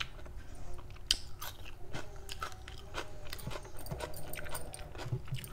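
A person chewing a mouthful of chicken kofta curry, rice and raw onion with the mouth closed: irregular wet mouth clicks with some crunching.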